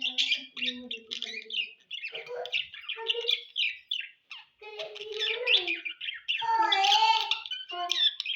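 Budgerigars chattering and warbling: a steady stream of rapid, short high chirps.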